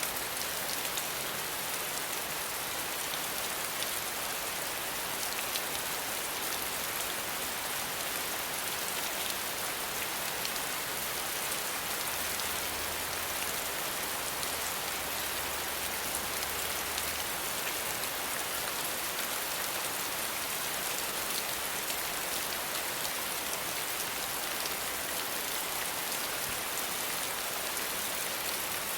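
Steady rain falling, an even hiss with scattered drops pattering on a surface. A faint low rumble sits under it for a few seconds near the middle.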